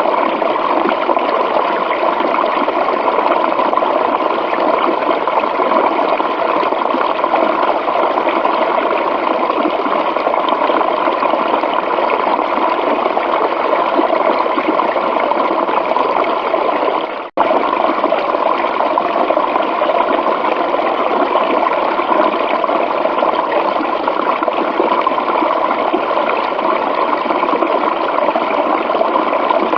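Steady rushing of running water in a stream or falls, an even, continuous wash. It dips and cuts out for a split second about two-thirds of the way through, then resumes unchanged.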